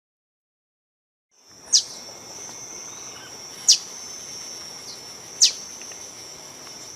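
Green honeycreeper giving a sharp, high call that slides downward, four times about two seconds apart, over a steady high insect drone. The sound begins about a second and a half in, after silence.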